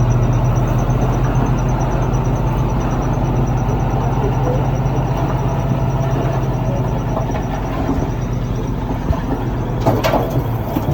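Heavy diesel engine of earthmoving equipment running steadily at a constant pitch, with a faint thin high whine that fades out a little before the end. A short clatter of knocks near the end.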